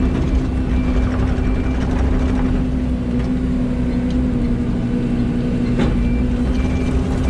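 Excavator's diesel engine running steadily with a constant low hum, and a single sharp click about six seconds in.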